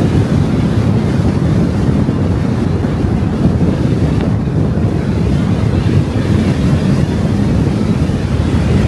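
Steady rumbling wind and road noise from a car driving along the road, with wind buffeting the microphone.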